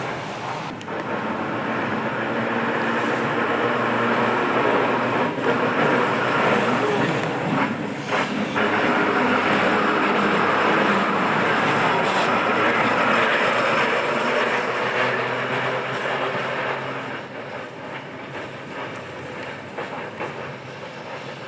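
Vintage Glasgow electric tram running along its track: a steady rumble of wheels on rail with a few sharp clicks, swelling through the middle and fading after about sixteen seconds.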